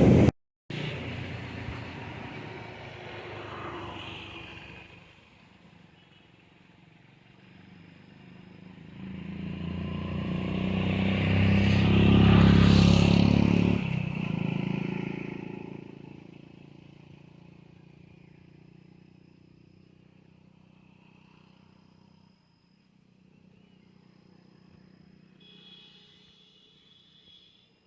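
A motor vehicle passing by, growing louder to a peak about twelve seconds in and then fading away.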